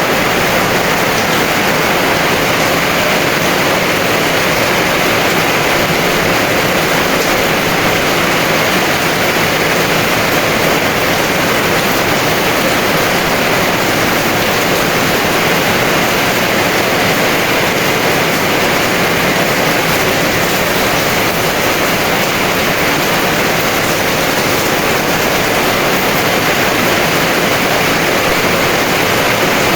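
Heavy rain falling steadily, a dense even hiss with no breaks or single drops standing out.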